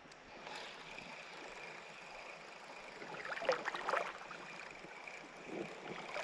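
Shallow creek water running and gurgling steadily, with a faint steady high tone above it. A couple of brief louder noises come about three and a half to four seconds in.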